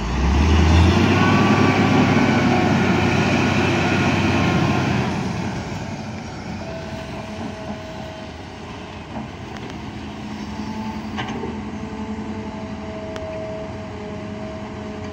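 Diesel dump truck engine running close by, loud for the first five seconds and then easing off to a lower steady run, with a faint steady whine later on.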